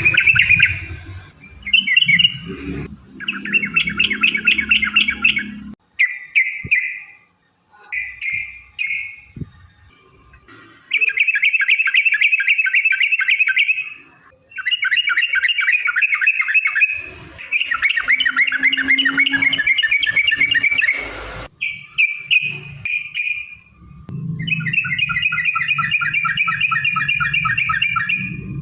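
Yellow-vented bulbul singing in long, fast rolling chatters, phrase after phrase with short pauses between them.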